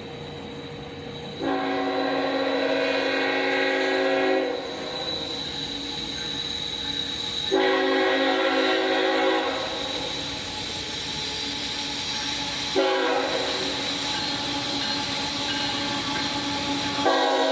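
CSX freight locomotive's air horn sounding a series of blasts. Each blast starts abruptly, about 1.5, 7.5, 13 and 17 seconds in, and the first is about three seconds long.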